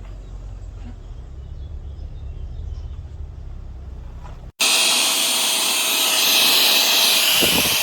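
A low rumble, then about halfway through a sudden cut to the loud, steady running of a cordless handheld vacuum cleaner: a high airy hiss with a steady whine.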